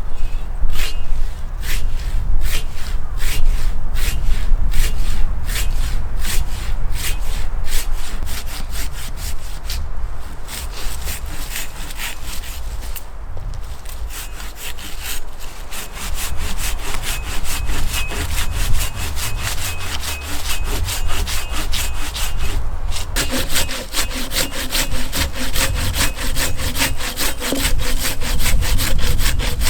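Hand saw cutting through wood in steady back-and-forth strokes, about three a second. It breaks off briefly a few times, then picks up with quicker strokes for the last few seconds.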